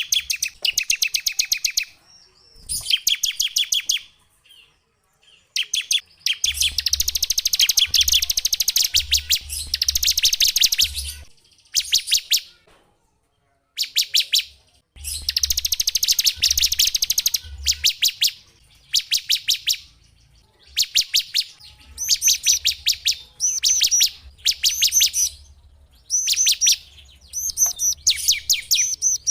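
A small songbird singing fast trills of rapidly repeated sharp, high notes, in phrases of one to four seconds separated by short pauses.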